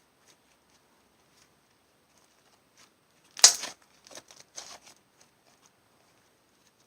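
Clear slime full of trapped air bubbles being squeezed by hand, with faint crackles throughout, a loud pop about three and a half seconds in, and a few smaller pops just after.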